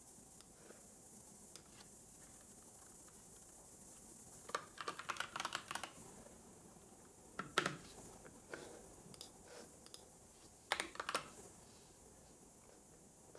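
Typing on a computer keyboard in short, quiet bursts. After a few near-still seconds comes a quick run of keystrokes, then a few sharper strokes and another short cluster, with pauses between.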